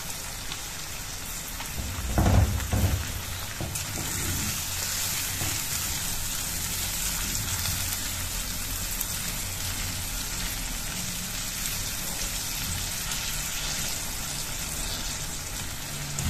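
Eggs and tomato-onion mixture sizzling steadily in a nonstick frying pan over a low flame, while a spatula stirs and scrapes through it. A brief louder clatter of the utensil comes about two seconds in.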